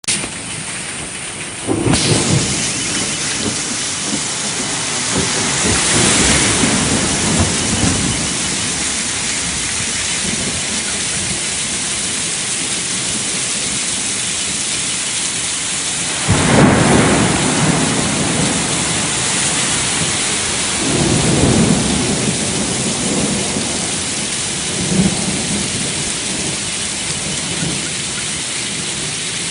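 Steady rain falling, with thunder rolling several times: first about two seconds in, again around six seconds, most strongly about sixteen seconds in, and once more a few seconds later.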